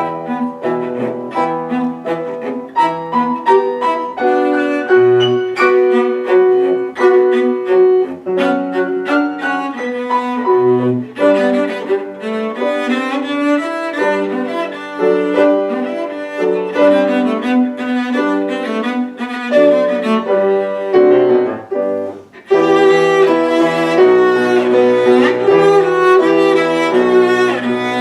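Cello and piano playing classical music together, the cello carrying the melody over the piano accompaniment. The sound drops away briefly about three-quarters of the way through, then both come back louder.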